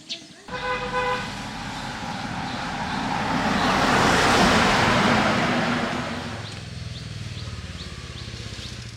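A vehicle horn toots briefly, then a motor vehicle passes close by, its engine and road noise rising to a peak and falling away, with a low engine rumble near the end.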